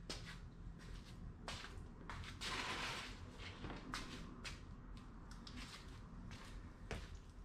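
Faint steady low hum of a BMW E36 M3's straight-six engine idling, with scattered footsteps and scuffs on the garage floor and a brief rustling hiss about two and a half seconds in.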